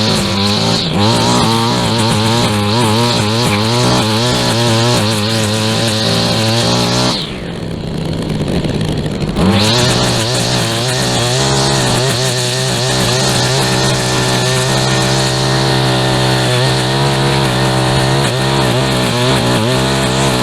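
Small gasoline lawn mower engine running under load while mowing, its pitch wavering. About seven seconds in it drops and dulls for about two seconds, then picks back up.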